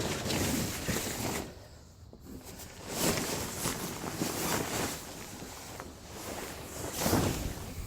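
Irregular rustling and scuffing noises, coming in several surges, with no engine running.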